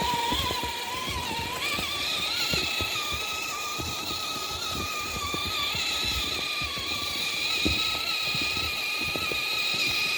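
Electric motor and geared drivetrain of a scale RC rock crawler whining steadily while driving through deep snow, its pitch stepping up a little about a second and a half in. Short crunching clicks run throughout.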